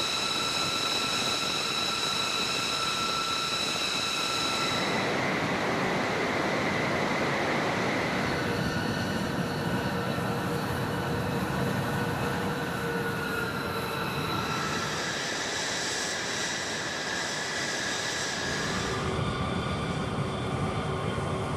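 Military turbine aircraft running: a steady rushing noise with a high-pitched whine of several steady tones on top. The tones change abruptly three times, as between different shots.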